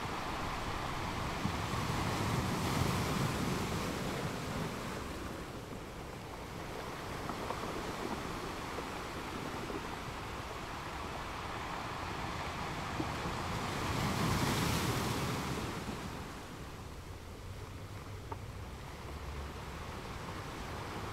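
Wind and sea-surf ambience: a steady noise that swells twice, about two to four seconds in and again about fourteen seconds in, with a few faint small clicks.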